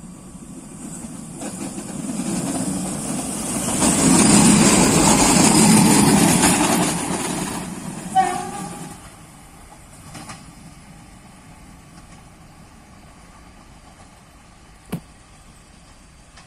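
A Koleje Dolnośląskie regional passenger railcar passing close by: the rumble of its running gear on the rails builds over the first few seconds, peaks as it goes past, and fades after about eight seconds. A brief horn toot sounds about eight seconds in.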